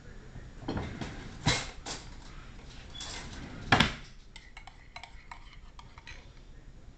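Metal utensils knocking and scraping against dishes: two sharp knocks, then a quick run of light clicks.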